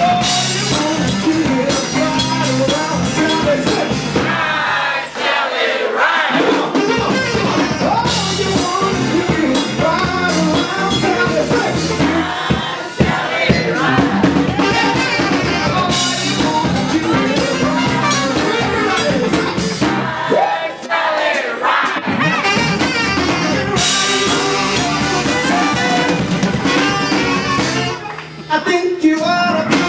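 Live blues band playing, drum kit driving the beat, with a woman singing over it.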